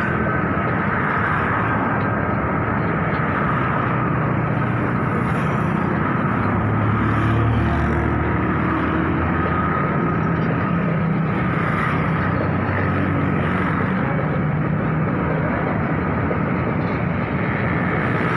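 Passenger train coaches rolling past below, a steady rumble of wheels on the rails with a thin steady whine running through it.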